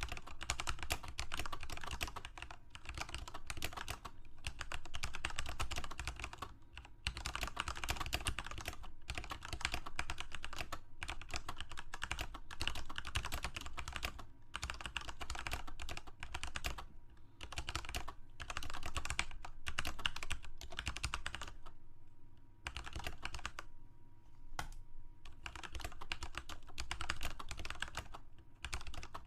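Continuous typing on a computer keyboard: rapid key clicks in bursts of a few seconds, with brief pauses between runs.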